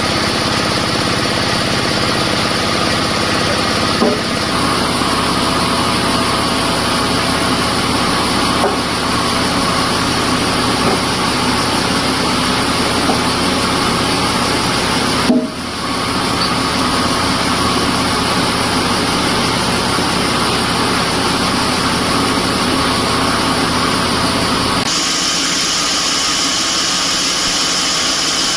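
Sawmill machinery running steadily with a loud mechanical drone. The sound shifts abruptly about four seconds in, drops out for an instant about fifteen seconds in, and changes character again near the end.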